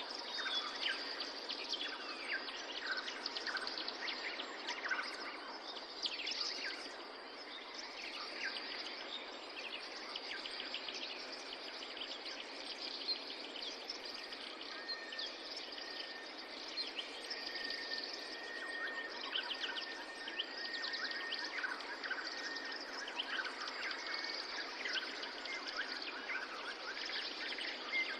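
Many birds chirping and trilling over a steady background hiss of outdoor ambience, with a long level high note from about fifteen to twenty seconds in.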